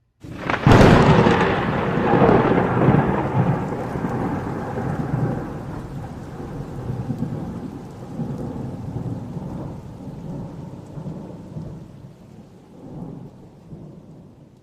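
Thunder: a sharp, loud crack about half a second in, then a long rolling rumble that swells and ebbs as it slowly fades away.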